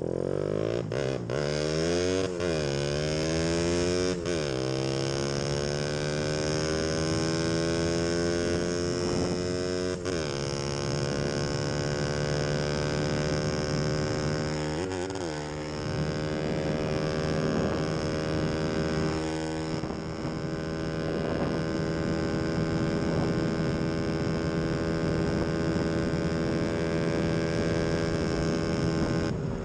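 Motorcycle engine accelerating through the gears: its pitch climbs and drops back at upshifts about two and four seconds in, then holds a steady cruise with a few brief dips where the throttle eases.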